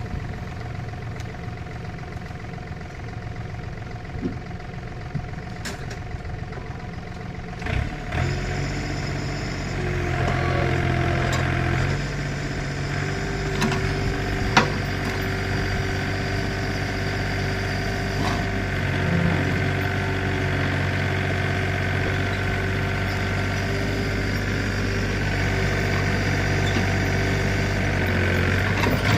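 Backhoe loader's diesel engine running steadily, picking up in load and speed about eight seconds in, its note shifting a couple more times, with a single sharp knock about halfway through.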